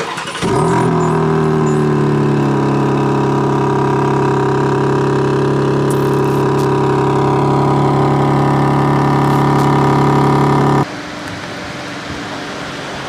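BMW M4 G82 Competition's twin-turbo inline-six, breathing through an Akrapovic titanium slip-on exhaust, starting up with a brief flare that settles into a loud, steady idle. The idle cuts off suddenly about eleven seconds in, leaving a quieter steady hum.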